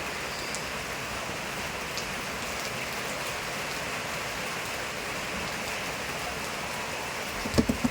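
Steady rain falling, an even hiss with faint scattered drop ticks, and a few sharper knocks near the end.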